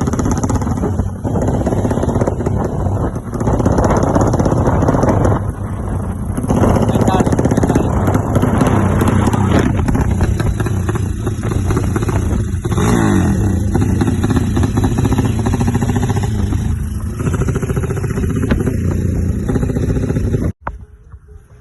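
Motorcycle engine running loudly, its speed rising and falling several times as it is revved while being tuned; the sound cuts off abruptly near the end.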